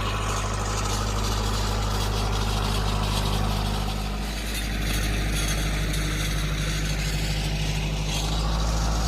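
Tractor engine running steadily, its note shifting about four seconds in, as the tractor sets off to spread fertilizer over the rice paddy.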